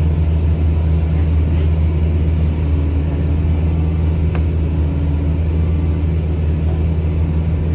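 Steady, loud, low engine drone holding one pitch throughout, with a single sharp click about four seconds in.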